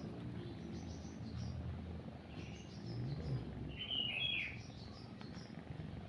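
Small birds chirping in short calls, the loudest a pair of chirps about four seconds in, over a cat's low purring.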